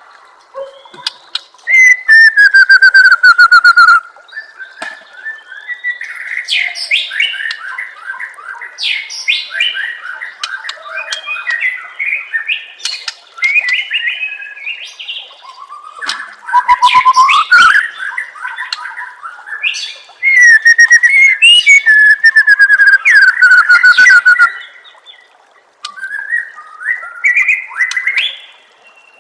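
White-rumped shama (murai batu) singing a long, varied song of clear whistles, gliding notes and fast trills. Several loud, sustained phrases alternate with quieter, choppier passages.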